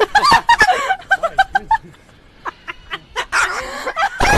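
A bird calling: a quick run of short, pitched calls in the first two seconds, then louder, rougher calls near the end.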